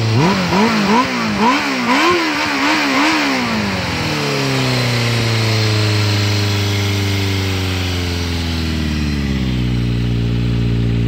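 Suzuki GSX400 Impulse's inline-four engine through a Yoshimura Cyclone muffler, blipped in a quick series of sharp revs over the first four seconds, then dropping back to a steady idle.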